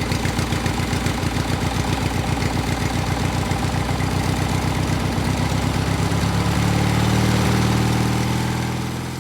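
Small engine of a homemade mini tractor running with a rapid, even chug. About halfway through it smooths out and gets a little louder, then fades away near the end.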